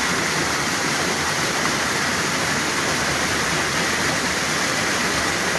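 Floodwater rushing steadily down a creek swollen by a flash flood.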